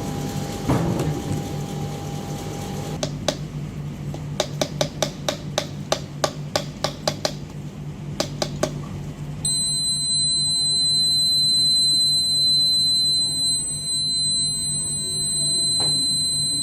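A steady low hum, a run of sharp irregular clicks for about six seconds, then, about nine and a half seconds in, an electronic buzzer starts a steady high-pitched tone that carries on to the end.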